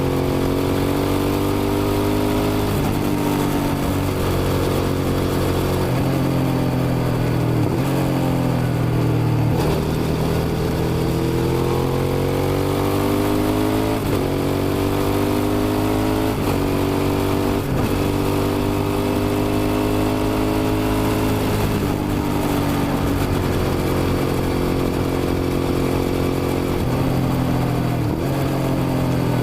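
Suzuki SV650's V-twin engine pulling hard under acceleration, its pitch climbing in each gear and dropping sharply at each of several gear changes.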